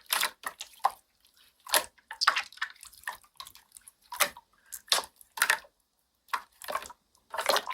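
Slime being played with by hand: a string of short wet clicks, pops and squelches at irregular intervals.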